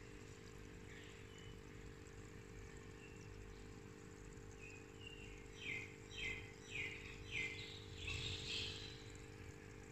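A bird calling a quick run of four or five short, falling chirps about halfway through, then a brief busier burst of calls. A steady low hum runs underneath.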